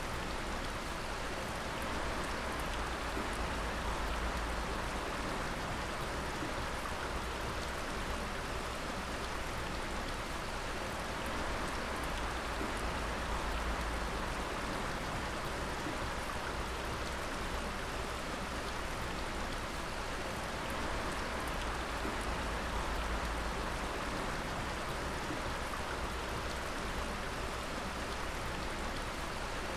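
Water dripping and splashing: a steady patter of many drops over a continuous wash of water noise.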